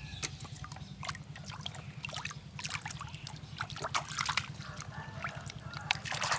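Water trickling and splashing as a small toy vehicle is washed, with scattered light clicks, over a steady low hum.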